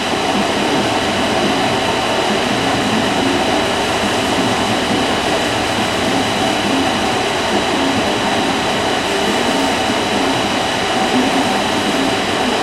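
Steady mechanical running noise with a constant high whine, unchanging throughout.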